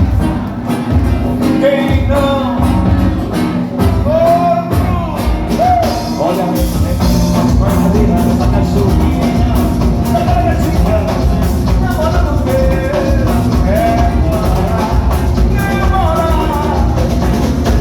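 Carnival band playing live: a singer carries the melody over guitar and drums, and the drumming becomes dense and continuous about six seconds in.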